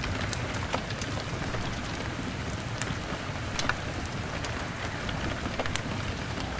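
Steady rain drumming on a window pane, mixed with a log fire burning: a low steady rumble under the hiss of the rain, with sharp crackles popping at irregular moments every second or so.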